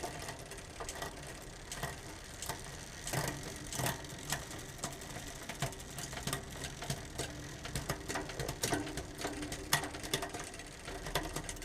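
Bicycle chain running over a 10-speed Shimano Ultegra cassette as the cranks are turned by hand, with sharp clicks and clatter as the rear derailleur shifts through the gears. The upshifts onto larger sprockets are a little slow: the cable is slightly short of tension.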